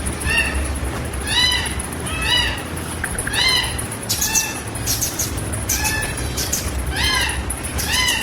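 A cat meowing over and over: short, high, arched calls about once a second.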